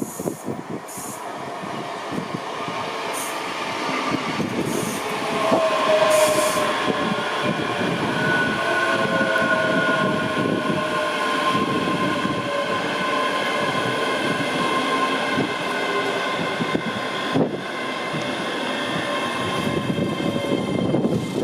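A train running through a station: a steady rumble that builds over the first few seconds, with whining tones from its motors or engine that drift in pitch.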